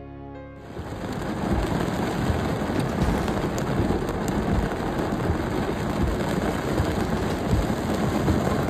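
Heavy rain pouring down as a loud, steady rush, coming in about half a second in as the music stops.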